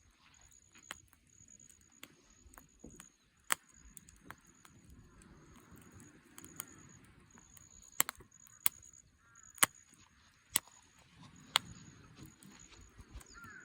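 Burning firewood crackling, with sharp, irregular pops and snaps over a low, steady rustle of the fire.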